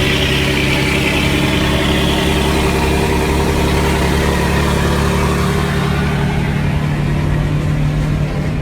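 Scania 113 truck's six-cylinder diesel engine running steadily with a deep, even rumble.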